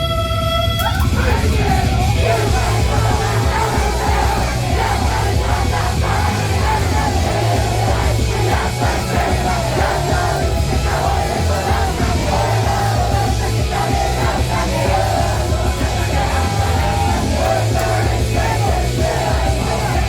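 Rock band playing live, loud, with a held chord ringing out about a second in before the full band with drums, bass and guitars comes in under shouted vocals.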